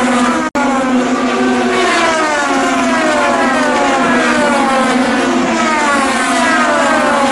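IndyCar engines at racing speed, their high-pitched note repeatedly falling in pitch as cars sweep past one after another. The sound drops out for an instant about half a second in.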